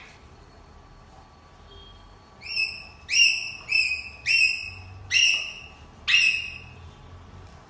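A parrot giving six short, high whistled calls in a row, each sweeping up quickly and then holding briefly.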